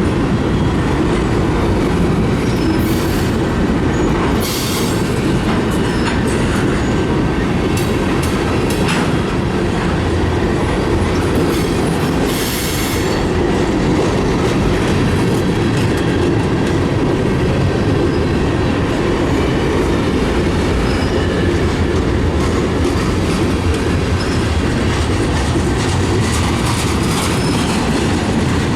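Freight cars of a mixed freight train rolling past, a loud steady rumble of steel wheels on the rails. A few brief high-pitched wheel squeals cut through, about four seconds in and again about twelve seconds in.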